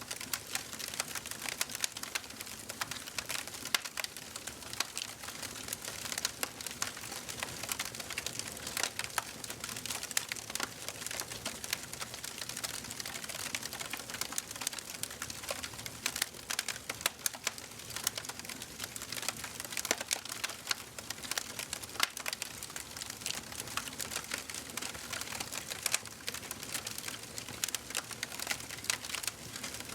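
Wood fire in a fireplace crackling steadily, with many small, irregular pops and snaps a second over a soft hiss of burning.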